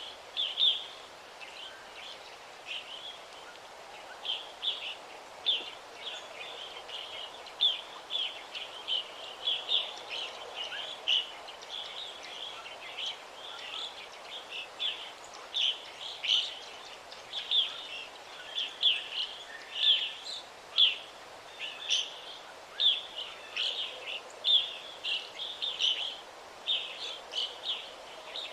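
Songbirds chirping in a forest, many short high chirps following one another without pause, over a faint steady background hiss.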